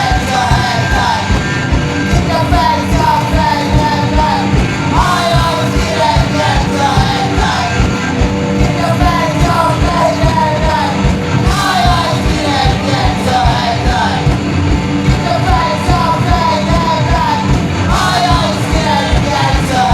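Live punk rock band playing loud, with drums, distorted guitars and shouted vocals.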